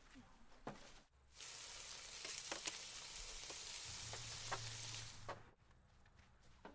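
Food frying in a hot pan: a steady sizzle with a few pops, starting abruptly about a second in and cutting off about a second before the end.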